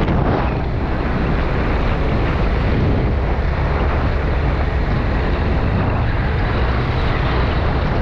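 Motorcycle riding along a road: steady wind rush on the microphone over the running engine and road noise.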